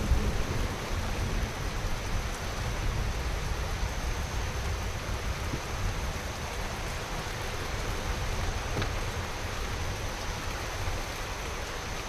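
Heavy thunderstorm rain falling steadily, an even hiss with no wind.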